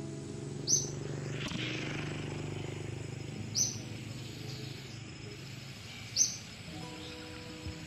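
A bird gives a short, high chirp three times, a few seconds apart, over a steady low outdoor background hum.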